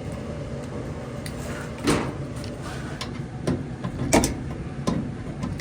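Kenmore clothes dryer running with a steady low hum and drum rumble. A few sharp knocks and clicks sound over it, the loudest about two seconds in.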